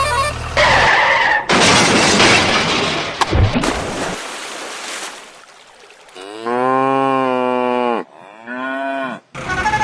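A cow mooing twice, one long moo and then a shorter one, after a couple of seconds of rough noisy crashing.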